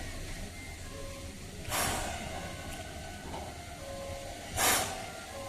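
C11 tank steam locomotive giving off two short, loud bursts of steam hiss about three seconds apart, over a steady low rumble.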